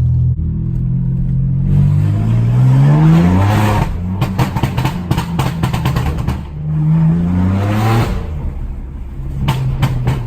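BMW F80 M3's twin-turbo inline-six with a non-resonated AWE track exhaust and catless downpipes, blipped twice from idle. Each rev rises and falls back with a rapid string of pops and crackles on the overrun.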